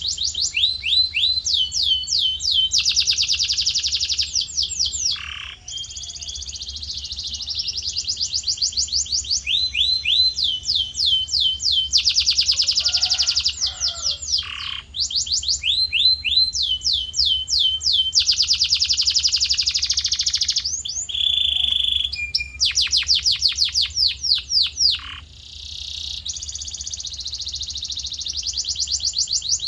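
Male canary singing in full song: long runs of rapidly repeated notes and fast rolling trills, switching to a new phrase every second or few, over a faint steady low hum.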